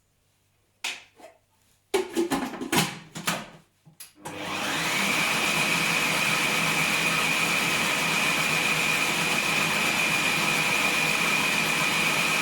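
A few short knocks, then a food processor's motor starts about four seconds in and runs steadily with a high whine, blending a batch of wild garlic pesto toward its final texture.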